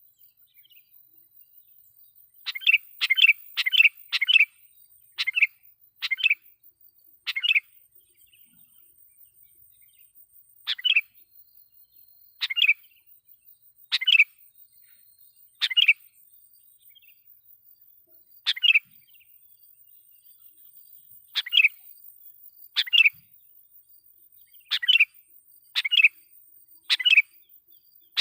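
Sooty-headed bulbul (kutilang) giving loud, short chirping calls: a quick run of several about two seconds in, then single calls every second or two with quiet gaps between. This is the loud call used as a lure to provoke wild bulbuls.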